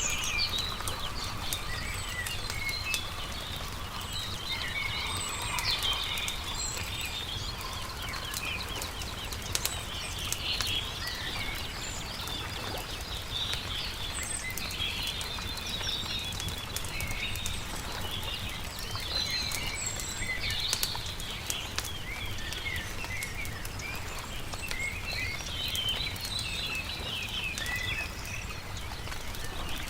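Chorus of small birds chirping and singing, with scattered crackles and pops from a burning campfire, over a steady low rumble.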